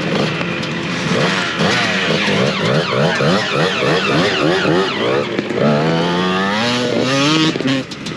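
Motocross motorcycle engines revving, the engine note rising and falling about twice a second, then climbing in one longer rise before dropping away sharply near the end.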